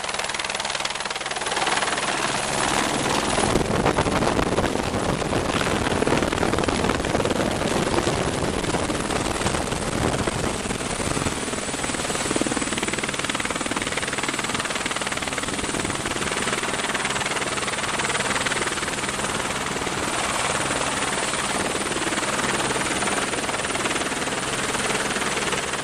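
Helicopter landing close by: rotor and turbine noise with a rushing blast of rotor wash swells about three seconds in, is loudest for several seconds, then settles to a steady running helicopter.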